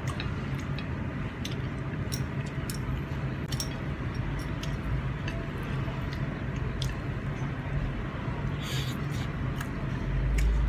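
A person chewing mouthfuls of Hokkien mee noodles, with scattered light clicks as chopsticks work the plate, over a steady low hum. A dull low thump comes near the end.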